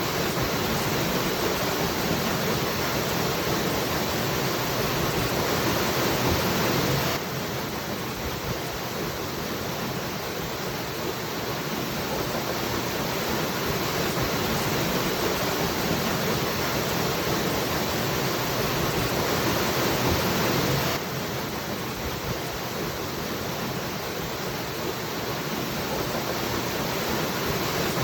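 Waterfall rushing in a steady, full hiss of falling water. It drops abruptly in level twice, about seven and twenty-one seconds in, and each time slowly swells back.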